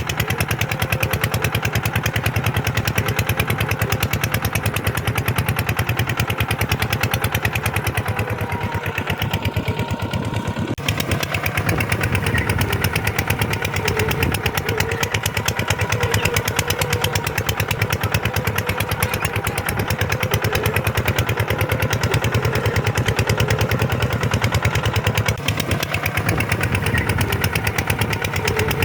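Kubota tractor's diesel engine running steadily, with a rapid, even chugging of firing pulses throughout.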